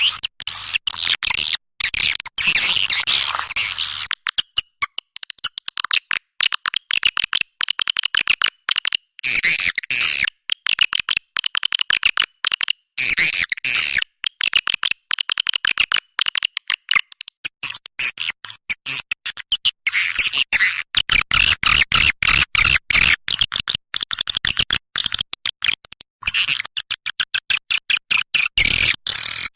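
Swiftlet lure-call recording: dense, rapid twittering and chirping, broken by frequent abrupt cuts between spliced segments.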